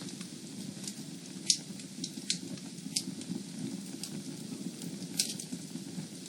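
Fire burning in a fireplace: a steady low rumble of flames with sharp crackles and pops at irregular moments, the loudest pop about a second and a half in.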